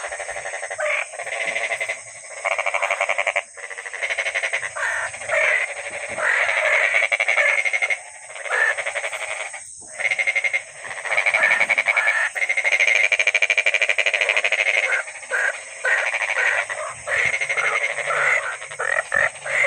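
Frogs giving mating calls: fast, pulsing croaks that run on in long bouts, broken every few seconds by short pauses.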